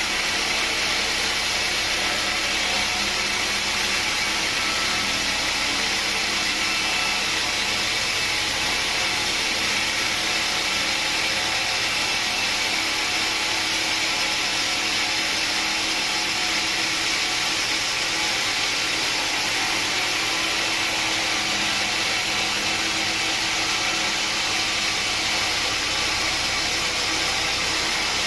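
Sawmill machinery running steadily: a loud, even, high-pitched hiss over a low hum, with no break or change.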